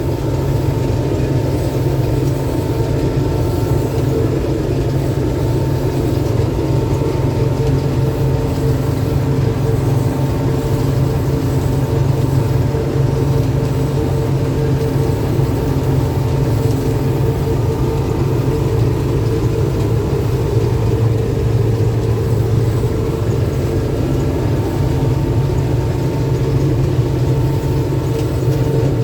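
Combine harvester running steadily while cutting and threshing winter barley: a constant low engine and machinery hum with a steady whine over it.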